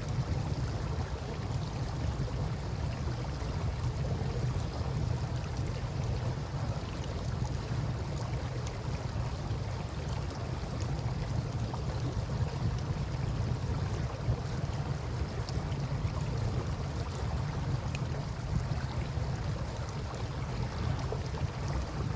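Campfire crackling with scattered small pops over a steady low rush of river water.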